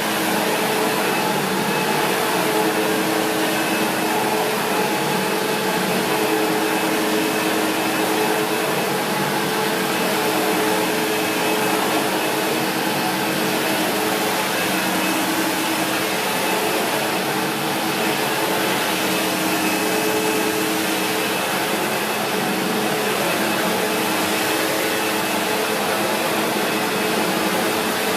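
SEBO X4 Extra upright vacuum cleaner running steadily, a continuous motor and suction noise with a few constant tones.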